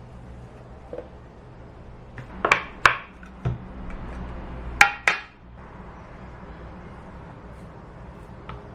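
Dishes and utensils clinking and knocking a few times in a kitchen, with two pairs of sharper ringing clinks about two and a half and five seconds in, over a low steady hum.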